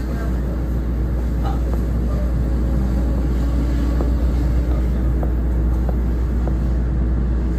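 Steady low rumble inside a moving NJ Transit passenger train car as it rolls along the rails, with a few faint clicks scattered through it.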